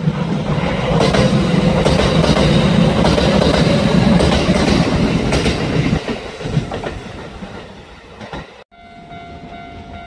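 Kintetsu limited express electric train passing close by, its wheels clattering over the rail joints in a clickety-clack rhythm. It is loud for about six seconds and then fades as the last cars go by. Near the end the sound breaks off abruptly and a fainter steady tone follows.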